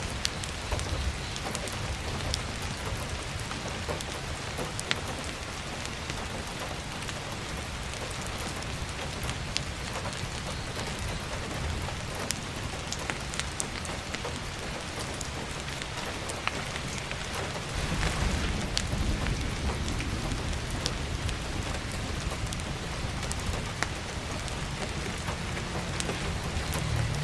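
Heavy rain drumming steadily on an attic skylight, with sharp crackles of burning firewood in a wood stove scattered throughout. A low rumble swells up about two-thirds of the way in.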